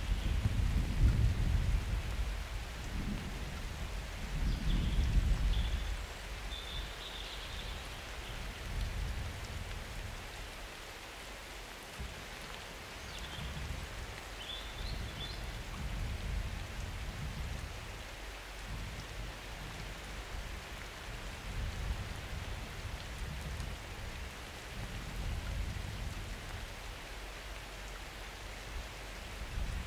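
Summer thunderstorm: steady rain with thunder rumbling, heaviest in the first several seconds, then weaker low rolls that come and go.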